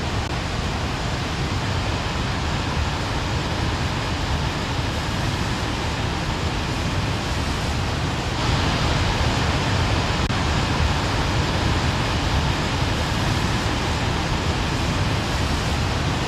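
Steady rush of wind and road noise from a motorcycle at speed, getting a step louder about eight seconds in.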